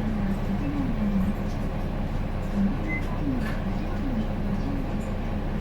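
Hino Blue Ribbon City bus's diesel engine idling steadily while the bus stands at a stop, heard from inside the cabin.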